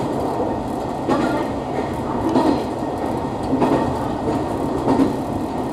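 Hisatsu Orange Railway diesel railcar running along the line, heard from inside the cab: a steady rumble of engine and wheels, with four louder clacks as the wheels pass over rail joints.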